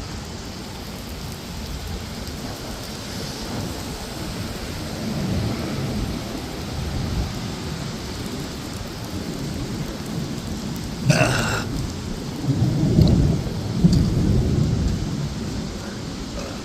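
Steady rain falling, with thunder rumbling low. A sharp crack about two-thirds of the way through is followed by the loudest, longest rumble.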